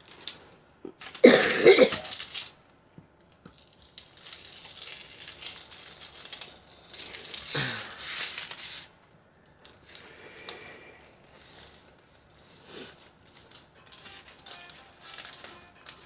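Rustling and rattling of sewing materials being handled, with two loud crinkling bursts, one about a second in and one near the middle. A phone rings faintly in the second half.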